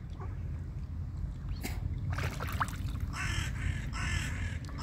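A bird giving three harsh calls in quick succession about three seconds in, over a steady low background rumble.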